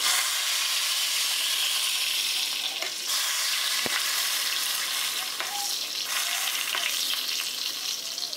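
Pork chops frying in hot oil in a skillet: a steady sizzling hiss, with a single sharp click about four seconds in.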